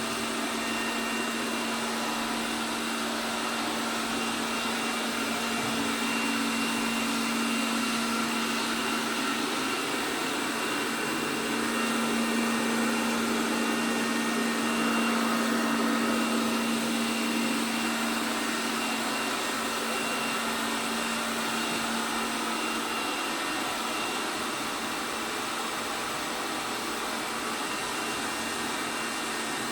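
ELARI SmartBot Lite SBT-002A robot vacuum cleaner running: a steady motor hum with a fainter high whine over a hiss of suction, a little louder in the middle.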